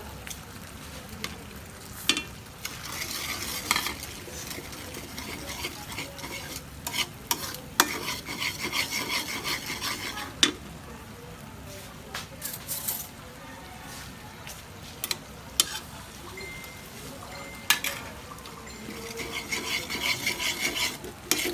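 Chicken frying and sizzling in a pan while a utensil stirs and scrapes it, the scraping coming in stretches of a second or two, loudest near the end. Several sharp single knocks of the utensil against the pan.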